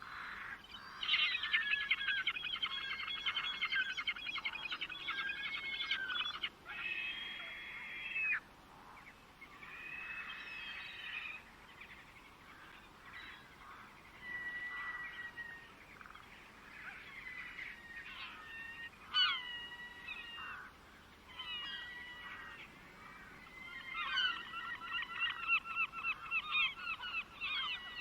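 Birds singing and calling: a long run of fast repeated notes, then scattered shorter chirping phrases, and another fast, dense run near the end.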